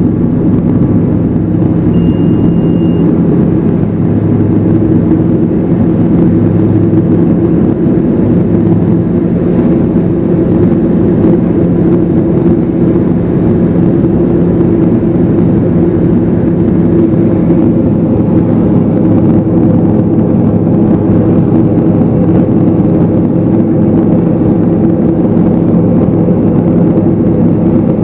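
Evektor SportStar's Rotax 912 four-cylinder engine and propeller running steadily, heard from inside the cockpit. A short high beep sounds about two seconds in.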